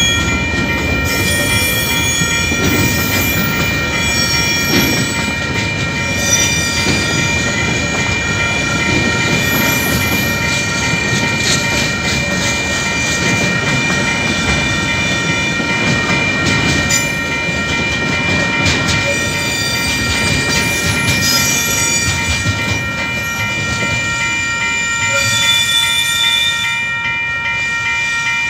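Freight wagons rolling over a level crossing: a dense wheel rumble with clickety-clack over the rail joints and high wheel squeals that come and go. Through it the crossing's warning bell rings steadily.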